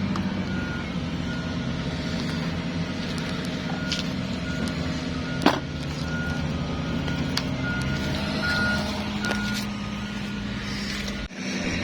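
A vehicle engine running steadily while a reversing alarm beeps repeatedly, about once a second. A couple of sharp clicks come through, and the sound cuts out briefly near the end.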